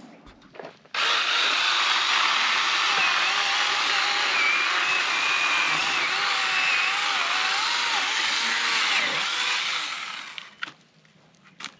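A power tool's motor starts suddenly about a second in and runs steadily for about nine seconds, its pitch wavering slightly as if under load, then winds down near the end.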